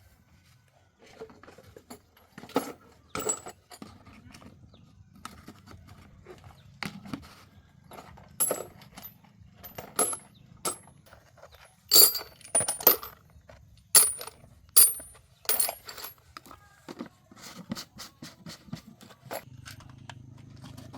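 Hand tools and metal parts clinking and tapping: irregular sharp metallic clicks with a brief ringing edge, most frequent and loudest in the middle, over a faint steady low hum.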